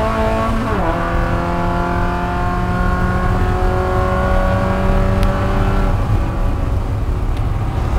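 Spec Miata race car's four-cylinder engine, heard from inside the cockpit over steady road and wind noise. Its pitch drops sharply at an upshift about a second in, then climbs slowly as the car accelerates. The engine note fades out about six seconds in.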